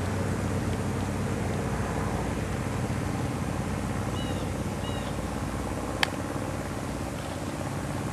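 Vehicle engine idling with a steady low hum. Two short high chirps come around the middle, and a single sharp click about six seconds in.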